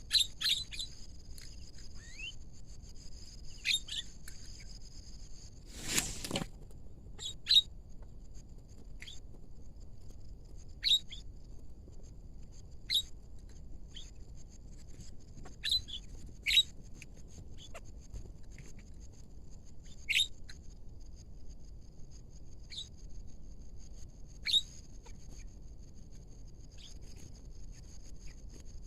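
Birds giving short, sharp calls every second or two over a steady, high-pitched insect drone. About six seconds in, one brief, loud, harsh noise.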